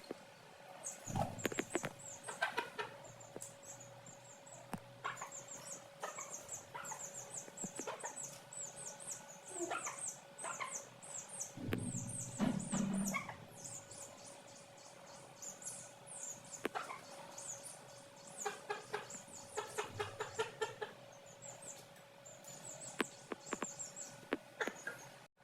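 Chicks peeping rapidly and continuously with short high chirps, while a hen clucks in short runs.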